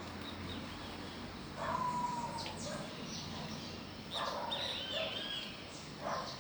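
Birds calling outdoors: three bursts of short calls with arched, sliding notes, roughly every two seconds, over a steady faint background hiss.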